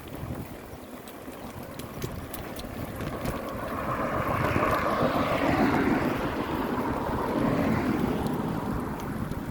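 Wind buffeting the microphone on a moving bicycle, with road traffic noise that swells from about four seconds in and fades near the end.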